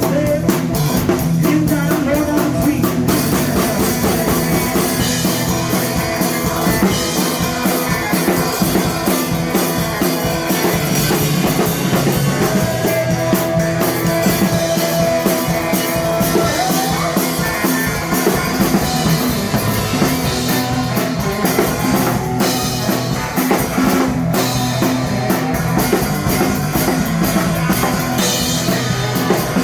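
Live blues band playing a passage without vocals: drum kit and electric guitar over a steady beat, with one long held note about halfway through.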